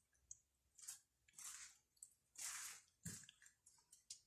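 Near silence, with a few faint, brief rustling noises.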